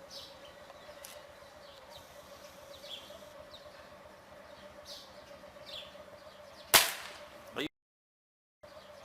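Air rifle shot: one sharp crack near the end that dies away quickly. Before it there are scattered faint bird chirps over a faint steady tone.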